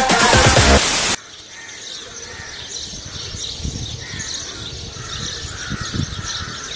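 Electronic dance music ends with a loud whooshing noise sweep just over a second in. It gives way to an outdoor ambience of several kinds of birds calling and chirping.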